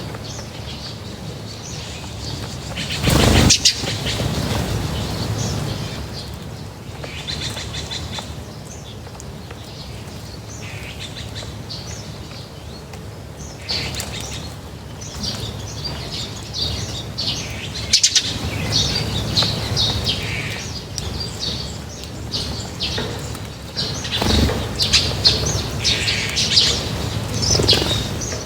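Many small birds chirping and twittering at a feeding spot, with a brief loud rustle about three seconds in.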